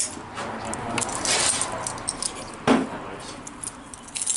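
A bunch of keys jangling and clinking as they are handled, with one louder knock of handling noise about two-thirds of the way through.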